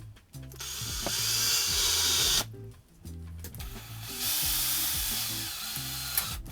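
Power drill running in two bursts of about two seconds each, over background music with a steady beat.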